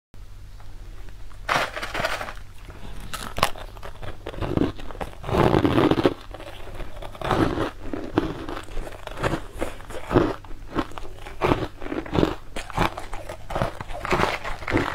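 Close-miked crunching and chewing of sugar-crusted purple cake squares: irregular crisp crunches throughout, with a louder, longer stretch of crunching about five seconds in.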